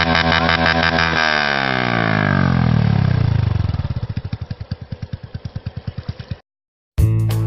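Honda Wave 110i single-cylinder four-stroke engine with a homemade open exhaust, held against its rev limiter with an even stutter, then the throttle released so the revs fall away over a few seconds to slow, separate exhaust beats. The sound stops abruptly near the end and music begins.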